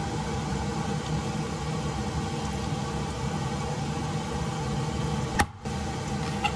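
A steady droning hum, like a motor or fan running, with a sharp click about five and a half seconds in, after which the sound briefly drops out.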